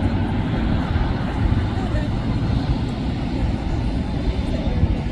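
Steady low rumble of airport noise: distant jet aircraft and road vehicles, with no single sound standing out.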